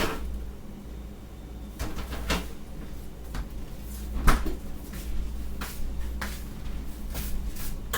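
A string of separate knocks and clicks from things being handled in a kitchen, the loudest about four seconds in, over a low steady hum.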